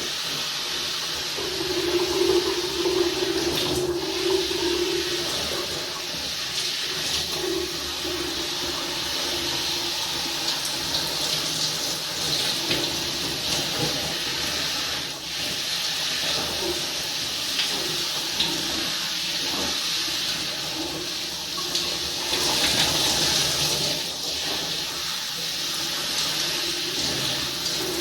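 Water running steadily from a tap, with a low tone in the first few seconds.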